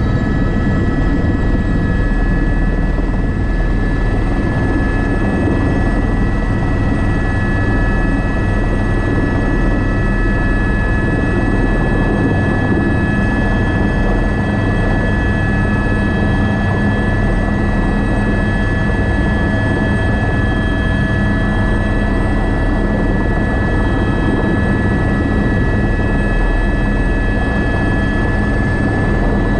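Airbus AS350 B3 (H125) helicopter running steadily, its turbine whine and rotor noise unchanging throughout.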